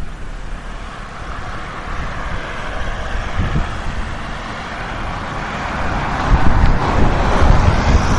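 Jet noise from an approaching Airbus A320's CFM56-5B engines, a rushing whine that grows steadily louder, strongest near the end. Gusty wind rumbles on the microphone.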